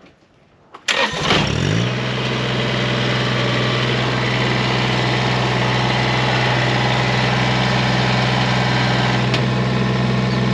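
Kubota BX23S tractor's three-cylinder diesel engine cranked and started about a second in, then running at a steady idle.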